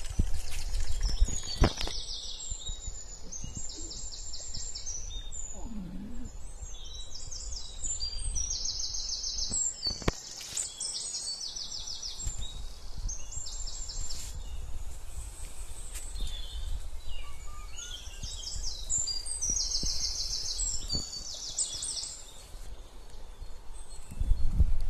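Songbirds singing: short, high, rapid trilled phrases again and again, with scattered chirps between them, over a low rumble that swells at the start and near the end.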